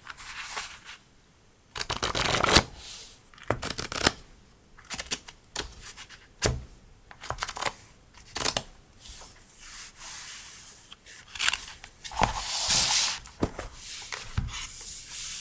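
Paper and plastic stationery packaging being handled: rustling and crinkling in irregular bursts, with sharp taps and clicks in between.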